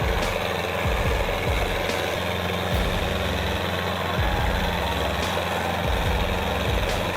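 Heavy tractor engine running steadily with a low, even hum.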